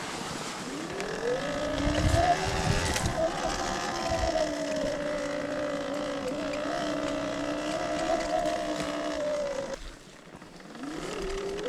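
Sur-Ron Ultra Bee electric dirt bike's motor whining under throttle while riding through mud. The whine rises in pitch as it accelerates and holds steady, with a few low knocks from the ground early on. It cuts off suddenly near ten seconds in when the throttle is released, then rises again just before the end.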